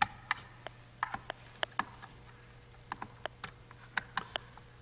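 Irregular sharp plastic clicks and knocks as the green pluggable terminal-block connectors are worked loose and pulled out of an Advantech ADAM-6051 I/O module; the loudest click comes right at the start.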